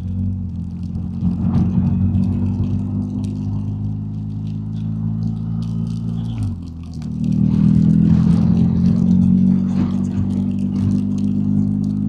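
BMW R1250GS Adventure's boxer twin engine running at road speed, its note dropping away briefly about six and a half seconds in, then pulling back stronger and louder.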